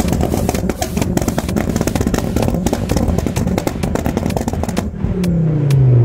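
Modified Volvo S60's engine revved hard and held high, then the revs fall away near the end.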